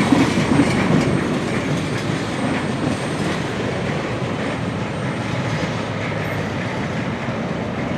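Freight train's gondola cars rolling past: a steady rumble with wheels clattering over the rail joints.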